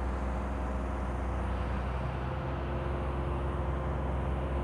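Steady low mechanical hum, like a vehicle engine running, with a few faint steady tones above it.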